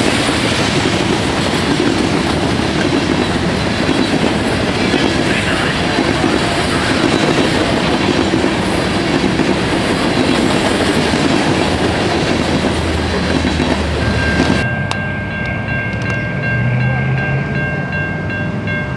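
Freight train of loaded covered hopper cars rolling past at speed, with steady wheel rumble and clatter over the rail joints. About three-quarters of the way through, the rolling noise cuts off abruptly and gives way to quieter, steady high ringing tones over a low hum.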